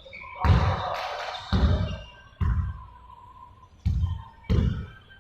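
A ball bouncing on a hard floor: five heavy thuds at uneven intervals.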